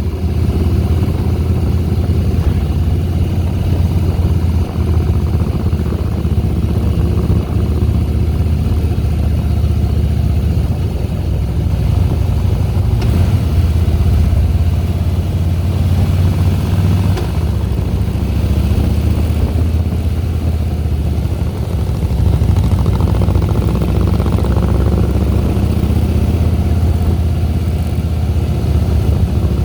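Harley-Davidson Softail Deluxe's air-cooled V-twin running steadily under way, a loud low engine note, with a brief change in pitch about three-quarters of the way through as the throttle changes.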